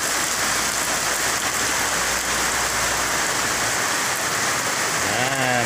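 Heavy tropical rain pouring down, a steady even downpour. A man's voice starts near the end.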